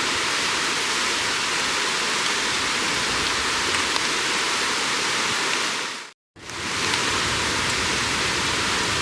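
Steady rushing of a river. It fades out to silence for a moment about six seconds in and comes straight back.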